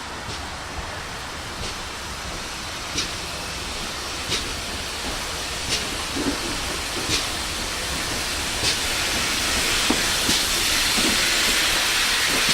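GWR 57xx pannier tank steam locomotive working, a hiss of steam growing slowly louder, with sharp beats about every second and a half.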